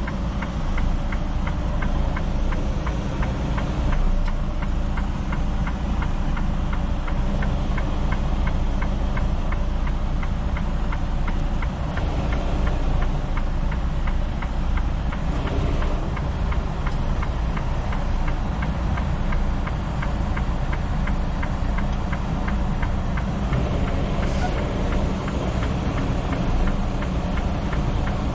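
A semi truck's diesel engine running steadily at low revs, with a fine, even ticking of its firing pulses.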